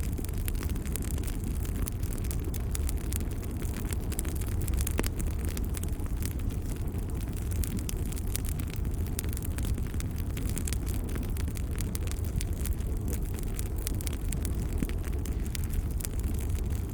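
Fireplace fire crackling: frequent small, irregular crackles and pops over a steady low rumble of the flames.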